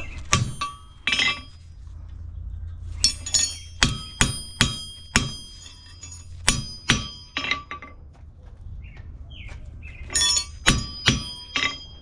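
Hammer striking a steel horseshoe on an anvil in four short runs of ringing blows, shaping the shoe by eye to fit the horse's foot.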